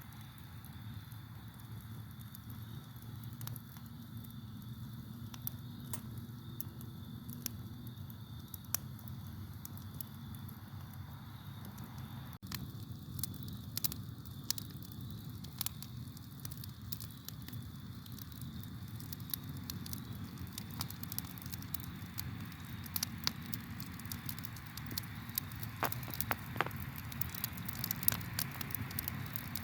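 Campfire crackling and popping with scattered sharp snaps that grow denser in the last third, over a low steady rumble, with crickets chirping as a thin steady high tone behind it.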